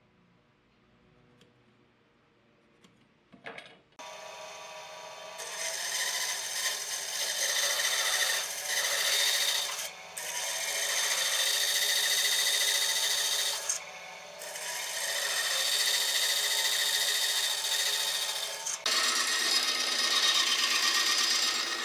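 A power tool working wood, starting about four seconds in after a few faint clicks and running in long stretches broken by brief pauses.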